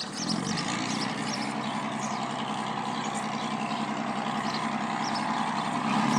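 An engine running steadily with an even pulse, slowly getting louder and swelling near the end, with small birds chirping.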